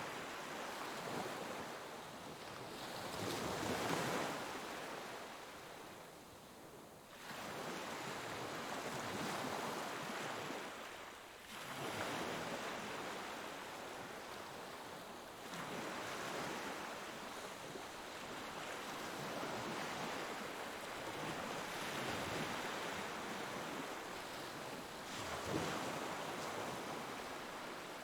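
Ocean waves breaking and washing up a beach, the surf swelling and ebbing every few seconds.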